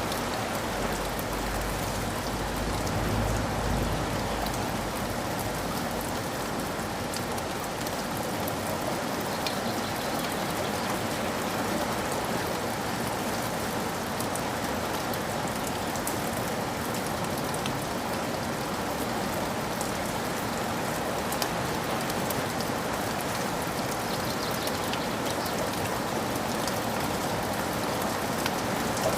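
Steady rain falling, with scattered drips ticking through it. A low rumble at the bottom of the sound fades out in the first few seconds.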